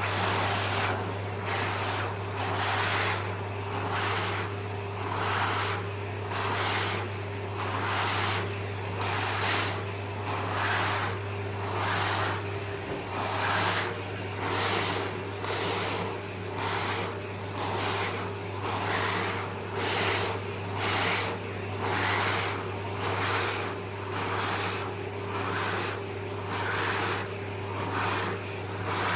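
Vacuum cleaner running with a steady motor hum while its head brush is stroked over a cat's fur about once a second, each stroke bringing a swell of brushing, sucking noise.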